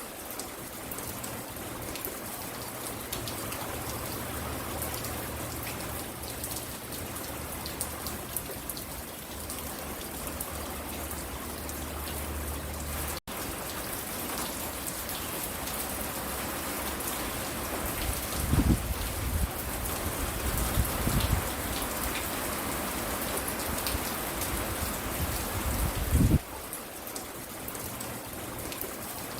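Steady rain falling, an even patter with individual drops tapping. Brief low rumbles come in the second half, the strongest about 26 seconds in.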